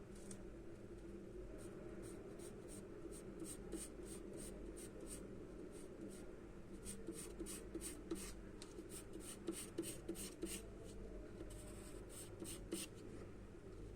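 Charcoal scratching on drawing paper in quick repeated strokes, about three a second, coming in runs as the drawing is shaded.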